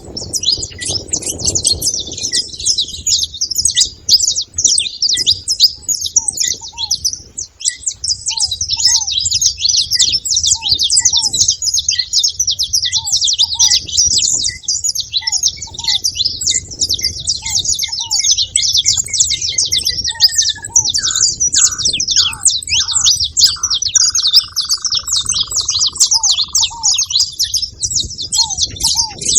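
A flock of saffron finches chattering at a feeding spot, with many high chirps overlapping without a break. Beneath them is a steady series of short, lower call notes about once a second. About two-thirds of the way through, a run of notes slides down into a long held whistle.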